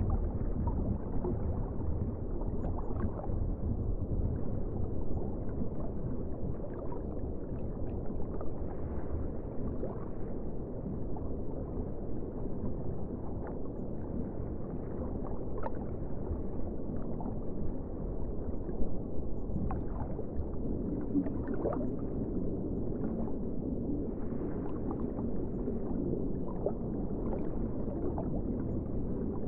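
Ocean water sounds: a steady, muffled low wash with scattered small gurgles and splashes.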